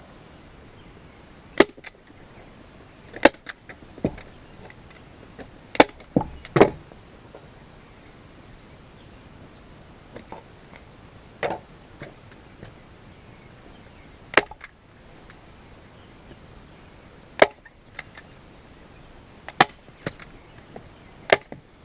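Staple gun firing staples through a leather seat cover into a plastic ATV seat base: about a dozen sharp snaps at uneven intervals, some in quick pairs or threes.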